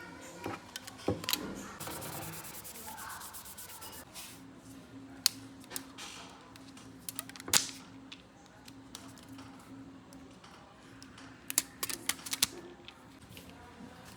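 Scattered sharp clicks and taps of small tools and parts being handled on a work surface during phone repair. A rapid run of ticks comes about two seconds in, and a low steady hum starts about four seconds in.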